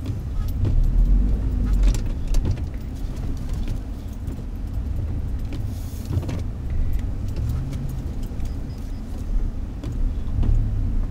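Car driving slowly through deep snow, heard from inside the cabin: a steady low rumble of engine and tyres, with scattered light clicks and rattles and a brief hiss about six seconds in.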